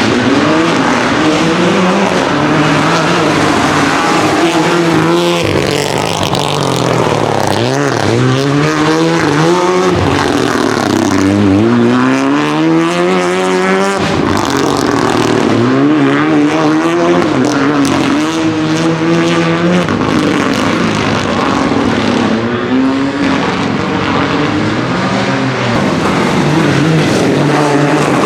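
Renault Clio Rally4 rally car engine at full attack, revving hard and repeatedly rising and dropping in pitch through quick gear changes as the car passes at speed. Several short passes follow one another, with abrupt changes about 5 seconds in, midway and near the end.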